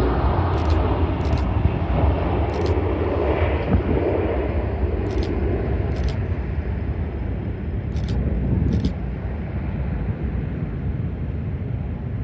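Boeing 757's Rolls-Royce RB211 turbofan engines at takeoff power: a broad jet roar with a heavy low rumble, slowly fading. A few short faint clicks sound over it.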